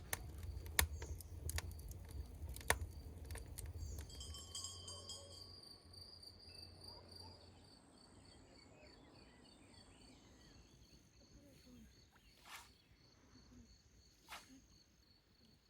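Faint rural outdoor ambience: an insect trilling in a steady, pulsing high tone, with a few short bird chirps. A low rumble and scattered clicks fade out about halfway through, leaving near silence.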